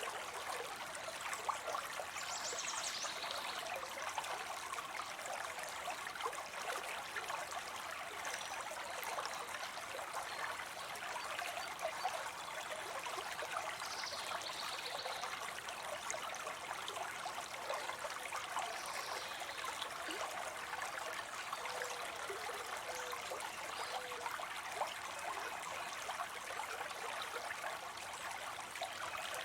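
Small falling water spilling into a pond, with a steady splashing trickle and no breaks.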